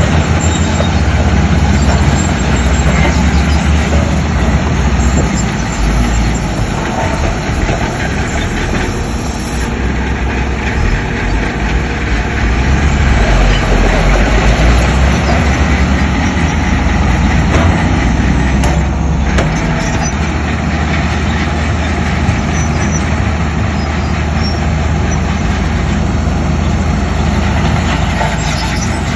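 Heavy diesel earthmoving machinery running steadily: a deep engine rumble with a dense mechanical noise over it.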